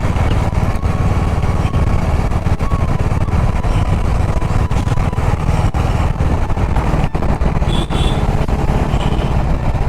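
Motorcycle running at steady road speed, its engine mixed with heavy wind rumble on the microphone.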